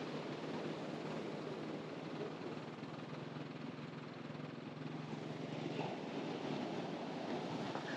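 Steady surf and wind noise on the beach, with the low, steady hum of a distant engine that stops about six seconds in.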